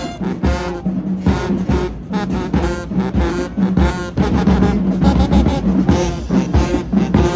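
High school marching band playing: brass with repeated low held notes over a steady drum beat.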